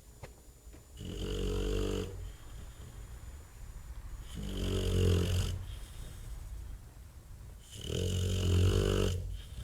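Bulldog snoring heavily: three long snores, one about every three and a half seconds, with quieter stretches between them.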